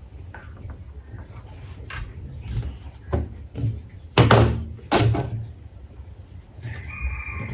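Irregular knocks and clunks of workshop parts being handled and fitted, the two loudest about four and five seconds in.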